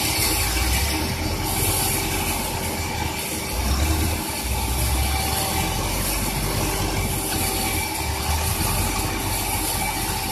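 Sawmill machinery running steadily while milling a large durian log: a continuous mechanical drone with a constant whine, and a deeper rumble that swells and fades several times.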